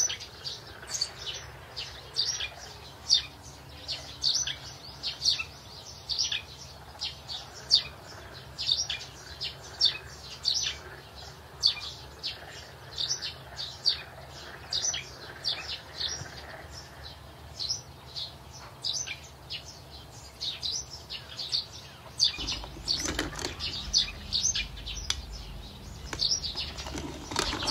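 Small songbirds chirping, short high chirps about one or two a second throughout. A low rumbling noise rises underneath about three-quarters of the way through.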